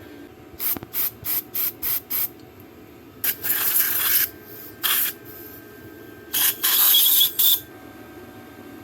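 Hissing spray blasts into a small-engine carburetor's passages, to clear a blockage in the fuel flow: about six quick bursts, then two longer blasts with a short one between.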